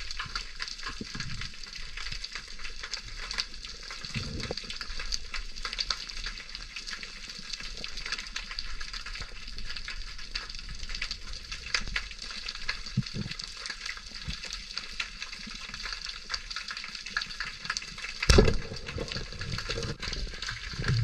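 Underwater crackle of snapping shrimp on a reef: a dense, steady frying-like crackle of tiny clicks. A few low thuds and one loud thump about eighteen seconds in.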